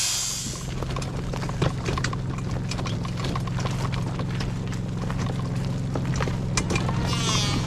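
A power tool's loud high hiss cuts off about half a second in. A portable generator keeps running with a steady low hum under scattered knocks and clicks.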